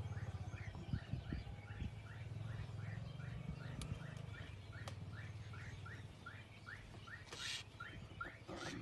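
A bird calling in a fast, steady series of short rising chirps, about three a second, over the low hum of an idling vehicle engine that fades out after about six seconds. Two brief rushing noises near the end.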